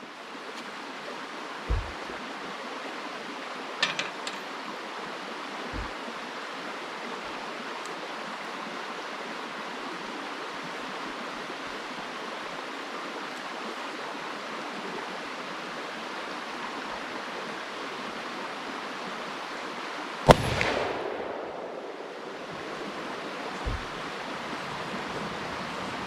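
A single shot from a magnum handgun about twenty seconds in, a sharp crack with a short echoing tail, over a steady rushing background noise.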